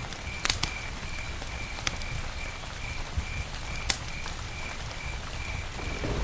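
Campfire burning with a low steady rumble and occasional sharp crackles and pops, the loudest about half a second and four seconds in. Behind it, a steady high chirp repeats about two to three times a second, like a cricket.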